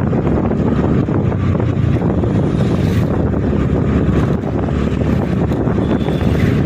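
Wind buffeting the microphone on a moving vehicle, a loud steady rush with road and engine noise underneath.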